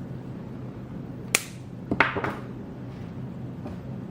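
Excess zip-tie tails being snipped off with cutters: a sharp snip about a second and a half in, then two more close together around two seconds in, over a low steady hum.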